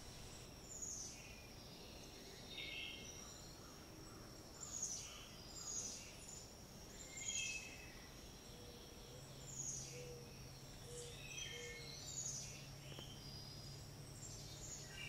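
Faint outdoor ambience: short bird chirps every second or two over a steady high-pitched drone.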